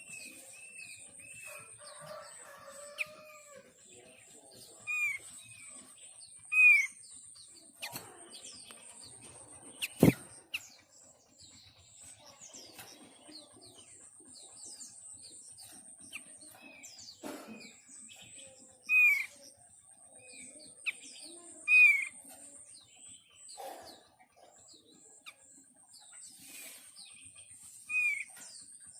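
Bird-lure recording of small songbirds, meant to draw thick-billed white-eyes: a busy mix of chirps and calls. A clear slurred call note repeats and stands out loudly several times. Behind it a high, steady insect drone comes and goes, and a sharp click sounds about ten seconds in.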